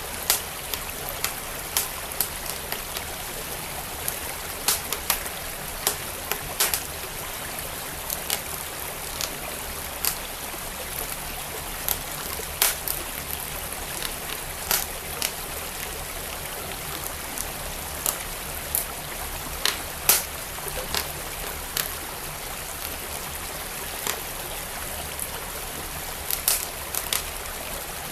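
Wood fire in a fireplace crackling, with sharp, irregular pops at a few a second, a couple of them louder, over the steady rush of a flowing stream.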